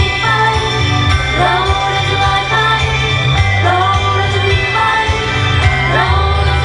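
Pop song performed live: a female group singing over a loud band backing track with a steady beat.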